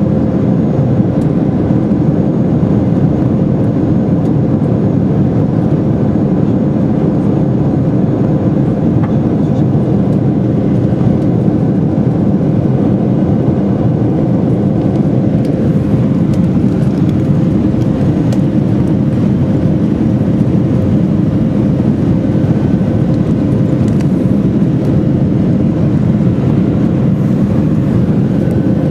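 Steady drone of a Boeing 747's four turbofan engines and airflow heard inside the passenger cabin during the climb after takeoff, with a faint steady whine running through it.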